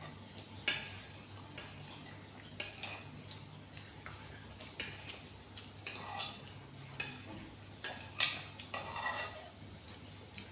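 Metal cutlery clinking and scraping against a bowl as instant noodles are stirred and eaten, in a dozen or so scattered sharp clinks.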